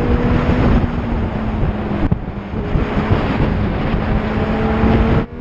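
Loud rushing noise of a moving vehicle with wind buffeting the microphone and a steady low drone underneath. The sound drops out briefly about two seconds in and again near the end.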